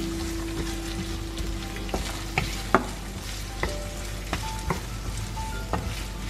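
Sliced shallots and ginger sizzling in oil in a nonstick frying pan, stirred with a wooden spatula that knocks sharply against the pan several times.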